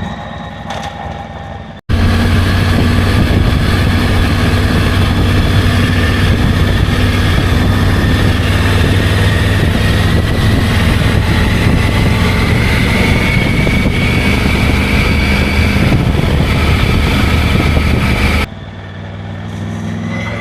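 Triumph Tiger 900 Rally Pro's three-cylinder engine running while the bike is ridden, with a steady rush of noise over it. A sudden break about two seconds in leads to a much louder stretch with the engine pitch slowly rising, which drops back to a quieter level near the end.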